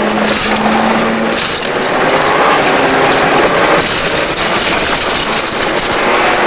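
Volkswagen Corrado G60's supercharged four-cylinder engine running hard, heard inside the cabin along with road and wind noise.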